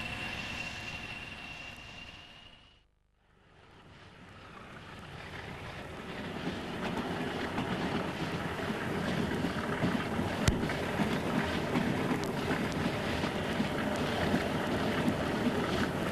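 Train running sound that fades out, then slowly fades back in and holds steady, with one sharp click partway through.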